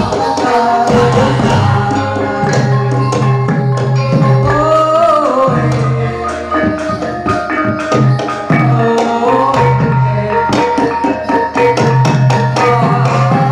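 Live Javanese gamelan music accompanying a jathilan dance: kendang hand drums beating under held metallophone notes, with a singing or flute-like line gliding briefly around the middle.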